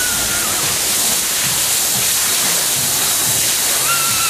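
Steady hiss of rushing, splashing water, with a thin high wavering call briefly at the start and again near the end.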